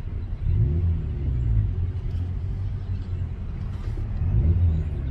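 2019 Honda Civic Sport running with its muffler deleted: a loud, low exhaust drone. It rises in pitch about half a second in, drops back, and rises again near the end as the car accelerates.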